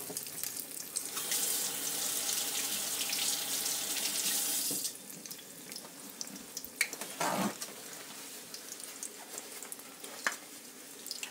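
A slice of egg-soaked bread frying in a pan of shallow oil: a steady hiss of sizzling that drops at about five seconds to a quieter crackle with scattered pops.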